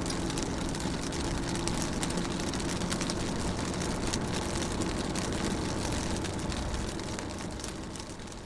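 Rain falling on a car's windows and bodywork, heard from inside the car as a steady spray of small drop ticks over a low, steady hum. It fades down near the end.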